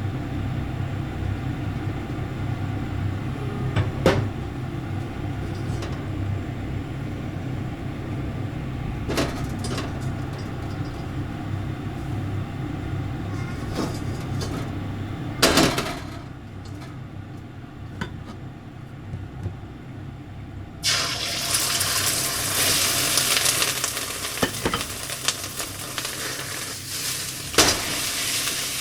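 Home kitchen cooking: a steady low hum with a few sharp clinks of utensils on cookware, then, about two-thirds through, a sudden loud sizzle as food hits a hot pan and starts frying, with more clinks.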